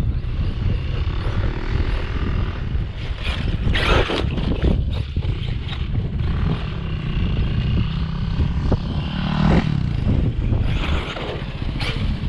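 Brushless electric RC monster truck driving off-road, its motor whining up and down with the throttle, with a few sharp knocks. Heavy wind rumble on the microphone runs underneath.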